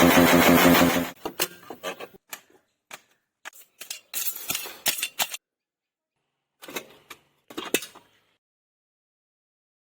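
KTM Duke 250 motorcycle's single-cylinder engine revving, cutting off abruptly about a second in. It is followed by a scatter of light clicks and clinks for several seconds.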